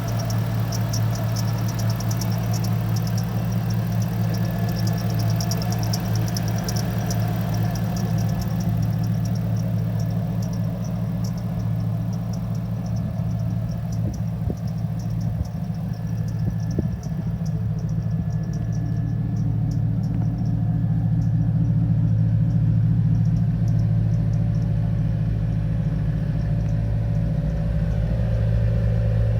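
Engine of a 1956 pickup truck idling steadily with a low, even hum, with a fast light ticking over roughly the first third.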